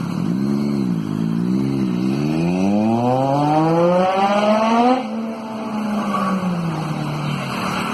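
Triumph Daytona 675R's three-cylinder engine through an Arrow aftermarket exhaust: two quick revs, then a long rise in pitch under hard acceleration. About five seconds in, the pitch and level drop suddenly and the note then falls away slowly.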